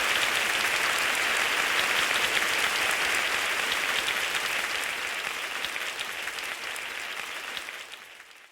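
Heavy rain falling steadily with a dense patter, fading out over the last second.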